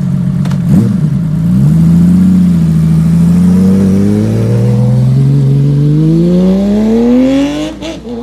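Honda CBX 1047cc inline-six engine, breathing through a 6-into-2 stainless exhaust, pulling hard under acceleration: its pitch holds for a few seconds, then climbs steadily, then drops sharply near the end as it shifts up a gear.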